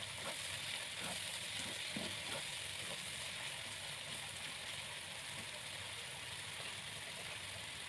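Spice paste with onions and whole spices gently sizzling in oil in a granite-coated wok while it is sautéed. A spatula scrapes and stirs it a few times in the first couple of seconds.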